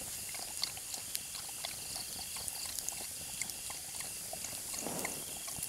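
Campfire crackling with scattered small pops over a steady trill of night insects. About five seconds in comes a short, breathy animal sound.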